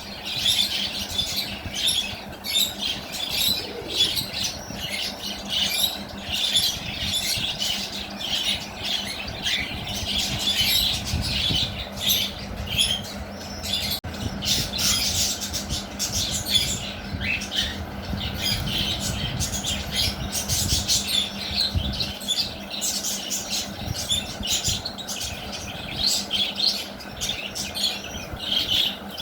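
Young lovebirds chirping and squawking in rapid, overlapping short calls, with bouts of wing fluttering.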